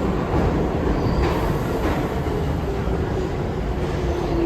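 New York City subway train running through the station with a steady, loud rumble of wheels on rail. In the second half a motor whine slowly falls in pitch as the train slows.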